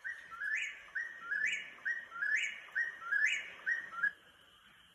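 Eastern whip-poor-will song: the rising three-note 'whip-poor-will' phrase repeated about once a second, stopping about four seconds in.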